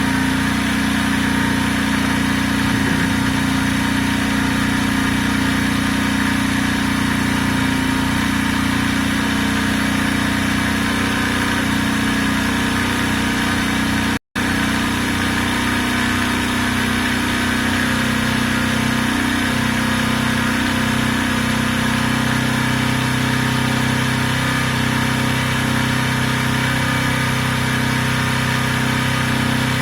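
Benelli Keeway 125cc motorcycle engine idling steadily on choke, cold after its first start following long storage; the idle note shifts a little in the second half, and the sound drops out for a split second about halfway through.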